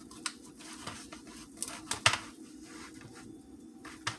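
Scattered clicks and knocks from hands working the tightly tied string off a rotisserie chicken, the sharpest about two seconds in, over a steady low hum.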